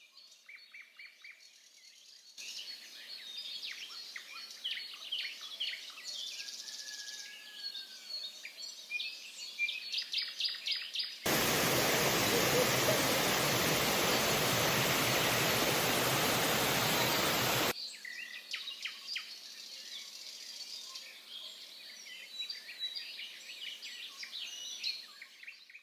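Many forest birds chirping and singing over a faint hiss. From about eleven to eighteen seconds a loud, steady rushing noise cuts in and drops out abruptly, drowning the birds.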